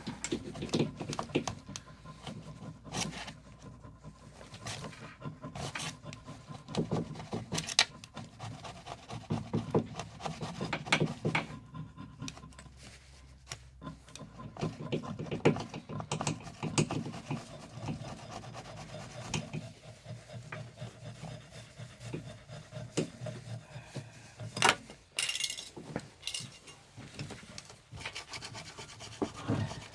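Irregular scraping and rubbing with scattered knocks and clicks, as of hand tools working on an engine being rebuilt.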